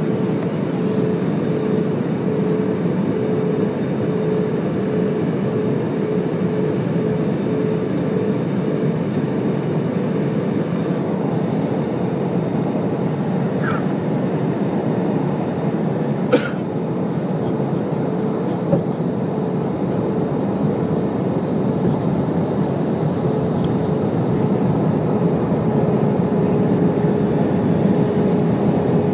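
Steady drone of an airliner's engines and airflow heard inside the passenger cabin, with a held hum running through it. Two short clicks come about halfway through.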